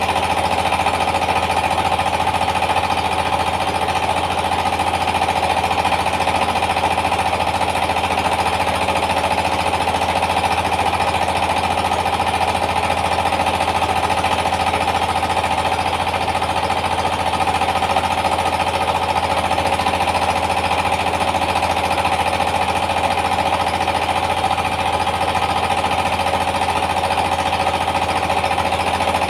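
Yanmar TS 230 single-cylinder diesel engine running steadily with a rapid, even pounding, driving a rice milling machine.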